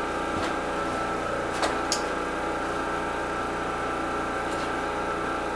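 A steady hum with fixed tones, broken by a few light clicks and taps about half a second in, twice near two seconds, and once more later.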